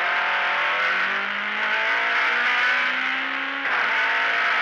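Rally car engine heard from inside the cabin under hard acceleration. Its pitch rises steadily for about three and a half seconds, drops suddenly at a gear change near the end, then starts climbing again.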